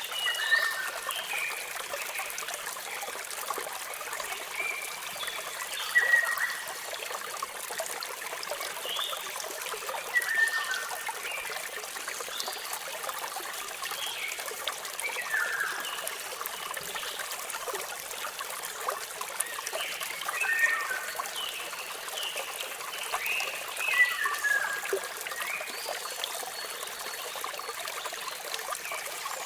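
Steady rush of falling water with a bird singing short chirping phrases over it about every four to five seconds.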